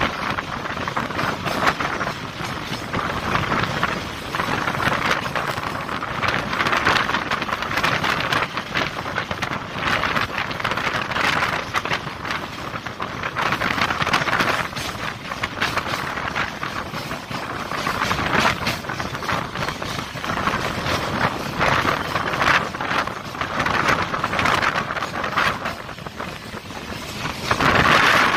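Running noise of a Chennai MRTS electric local train in motion, with wheels clattering on the rails, mixed with wind rushing past the microphone. The noise swells and ebbs every couple of seconds.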